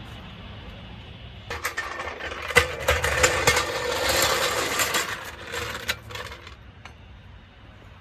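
Clattering and scraping, with several sharp metallic clinks, swelling for about five seconds and then dying away.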